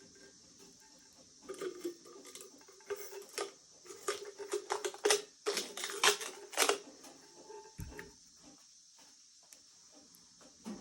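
Heat-shrink plastic wrap crackling and crinkling as it is cut and peeled off a sublimated tumbler, a quick run of sharp clicks and rustles lasting about five seconds, with a low thump near the end.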